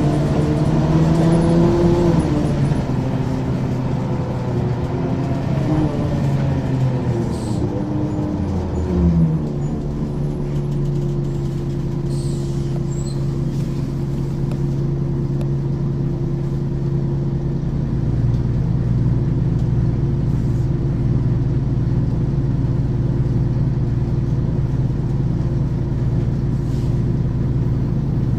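Ikarus 435 articulated bus's diesel engine with ZF gearbox: the engine note wavers and falls over the first nine seconds, then settles into a steady, unchanging drone, its deep low end growing stronger about eighteen seconds in.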